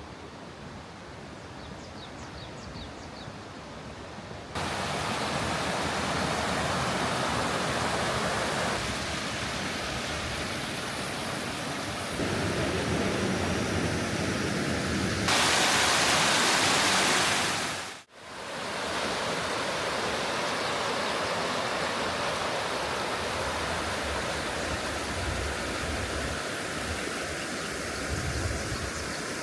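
A village mountain stream rushing steadily, heard as a run of short takes: the loudness and tone of the water jump abruptly several times, with one sudden dip about two-thirds of the way through. A few faint high chirps sound near the start.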